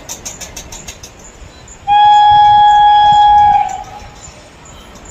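Train locomotive horn sounding one long, steady blast of nearly two seconds, starting about two seconds in, as an express train approaches to run through a station without stopping. Faint rapid high ticking comes before it.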